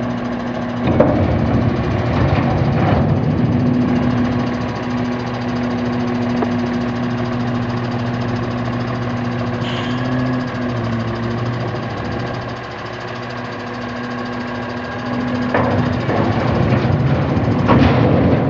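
The Mercedes diesel engine of a 2009 Freightliner M2-106 recycle truck running steadily, getting louder and rougher for a moment about a second in and again near the end.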